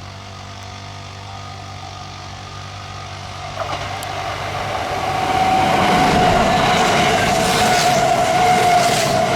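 Kintetsu electric train approaching and running past, its rumble growing louder over the first half and then holding, with a steady high whine over the rail noise.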